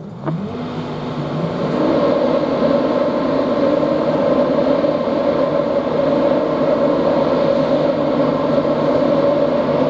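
A train at the platform, its traction equipment giving a steady hum that rises briefly in pitch at the start and grows louder over the first two seconds, then holds.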